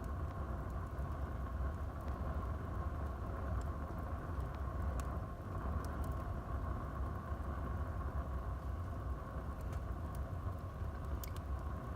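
Wood fire burning in a fireplace: a steady low rumble with a handful of sharp crackles and pops scattered through it.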